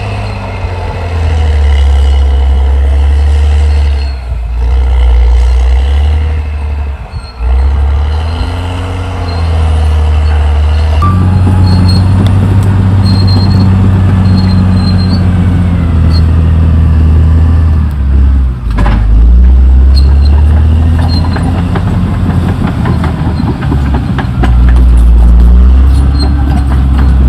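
Caterpillar D6R XL bulldozer's diesel engine running hard under load, its note rising and falling as it works, with a couple of brief dips early on and a steadier, fuller stretch from about a third of the way in.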